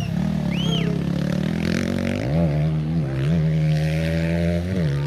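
Off-road racing engine running hard at a steady high pitch. It dips briefly in pitch and climbs back three times, about two seconds in, a second later and near the end, as the throttle is eased and reapplied.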